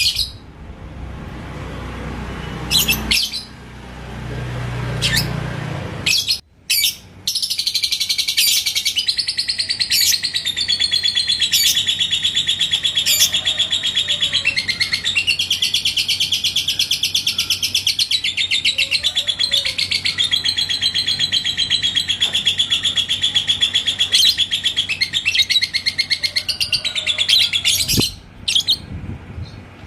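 Lovebird singing its long 'ngekek' song: an unbroken, very fast chattering trill of about twenty seconds, starting some seven seconds in after a few short chirps over a low rumble.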